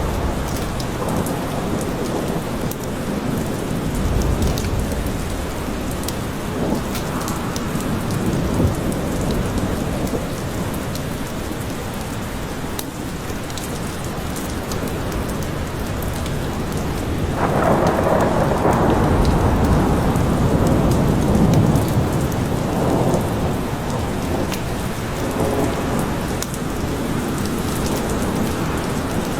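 Steady rain falling in a forest, with thunder rumbling in the background. A longer roll of thunder swells up a little past halfway and rolls on for several seconds.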